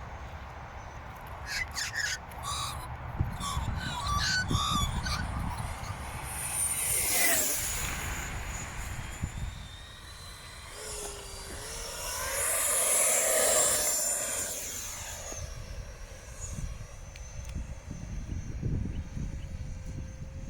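Electric ducted fan RC model jet flying past twice, its high fan whine swelling and dropping in pitch as it goes by, about six and twelve seconds in. A low rumble of wind on the microphone runs underneath.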